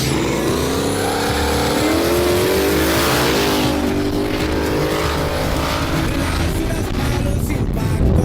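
Turbocharged truck engine at full throttle in a drag race, climbing in pitch through the gears, with a shift right at the start and another about three seconds in.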